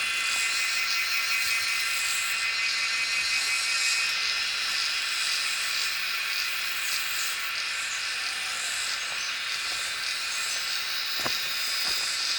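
A steady high-pitched buzzing drone with many tones layered together, with a couple of faint clicks near the end.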